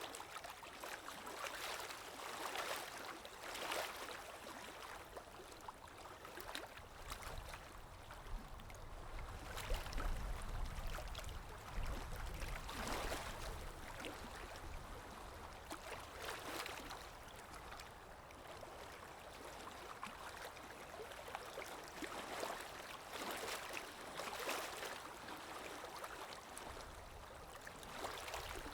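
Underwater ambience: muffled water swirling and gurgling, with swells that rise and fade every few seconds. A deeper rumble comes in about seven seconds in and eases off around thirteen seconds.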